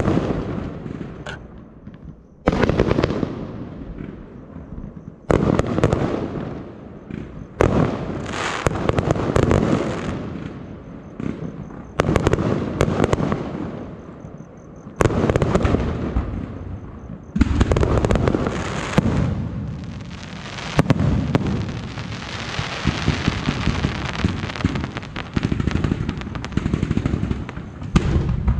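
Aerial fireworks bursting: a sharp bang about every two to four seconds, each trailing off in a long crackling rumble. Near the end there is a longer unbroken stretch of crackle.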